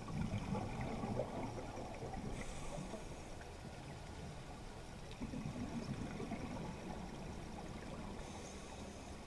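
Underwater scuba breathing through a regulator: two long bubbling exhalations, each followed by a short hiss of inhalation, over a steady rush of water.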